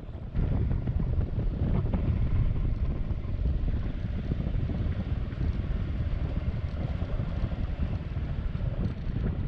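Heavy wind rushing over the microphone of a moving motorbike, a dense low rumble that jumps up in level about half a second in and stays steady.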